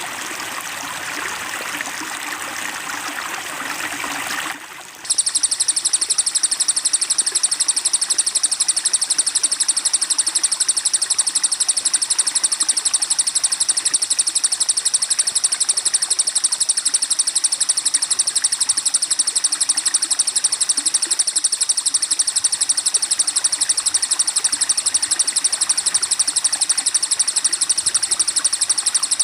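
Flowing water for the first four and a half seconds, which then stops. About five seconds in, a recorded songbird's fast, high-pitched trill starts abruptly and repeats without a break, loud and very even, as on a looped bird-song training track.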